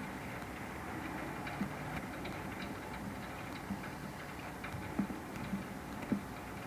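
Scattered light taps and clicks over a steady low hiss.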